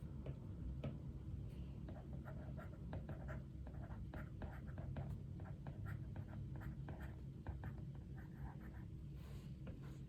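Quick, irregular tapping and scratching of someone working at a desk, typing or writing, over a steady low room hum. The tapping thins out near the end.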